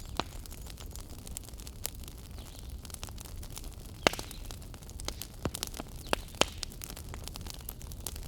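Fire burning in a fireplace: a steady low rumble of the flames with irregular sharp crackles and pops, the loudest pop about four seconds in and a quick run of them a little after the middle.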